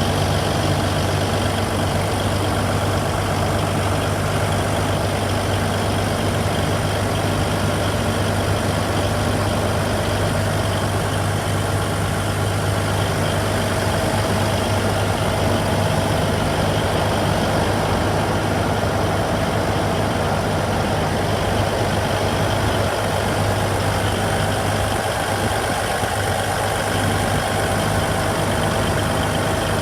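Diesel engine of a Liebherr R984 hydraulic excavator running steadily at a constant speed, with an even low hum.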